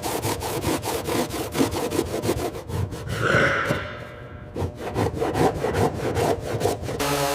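Rapid back-and-forth scraping strokes, about six a second, like hand sawing or hard scrubbing, with a brief hiss a little after three seconds in. A steady machine hum starts right at the end.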